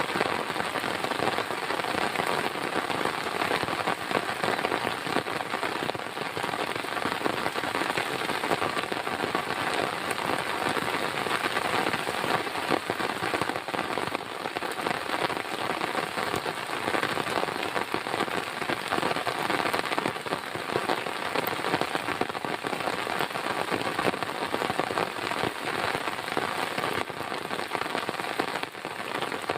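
Heavy rain falling steadily, with a dense spray of individual drops striking a surface close by.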